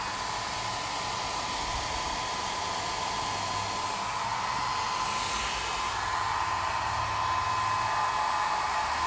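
Small 400-watt Panasonic travel hair dryer running on its second, stronger setting: a steady rush of air with a steady whine from the fan motor.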